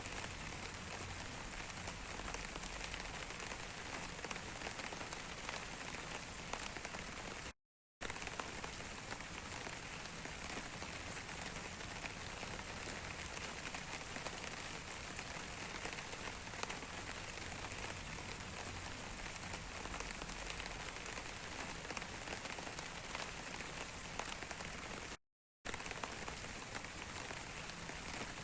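Steady rain falling, with many small drops pattering. The sound cuts out completely for a split second twice, about 8 seconds in and again near the end.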